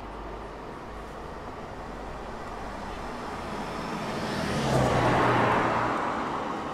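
A car driving past on the street: its tyre and engine noise swells to a peak about five seconds in and then fades away.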